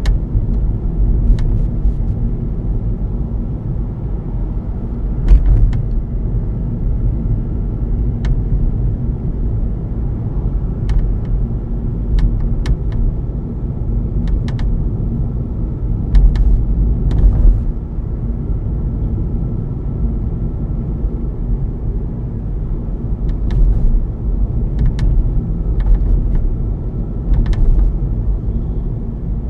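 Lexus IS250 moonroof knocking: short sharp clicks at irregular moments, a dozen or so over the stretch, some in quick pairs, over the steady low rumble of the car driving.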